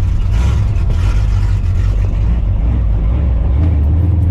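Straight-piped, supercharged 5.4-litre V8 of a 1999 Mustang GT running at low revs: a loud, steady, deep exhaust rumble.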